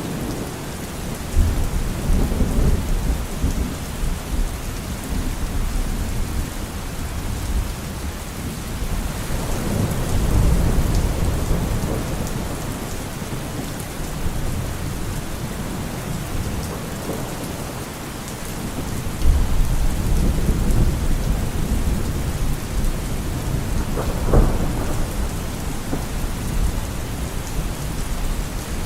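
Steady rain with thunder rolling in low, long rumbles several times, and one short sharp crack near the end.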